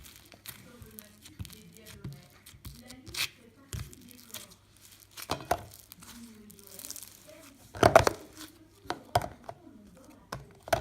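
Slime being kneaded and stretched by hand: irregular sticky clicks, crackles and wet pops, the loudest a cluster about eight seconds in.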